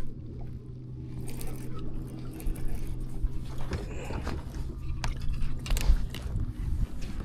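Close handling noises on a kayak: scattered scrapes, knocks and rustles over a steady low hum that stops near the end.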